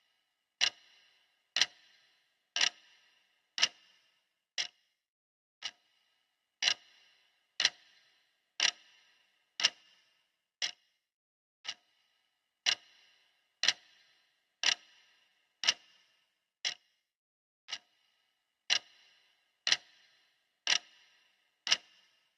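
Clock ticking once a second, each tick a sharp click. The ticks run in a repeating pattern: four louder ticks with a brief ring after each, then two fainter ones.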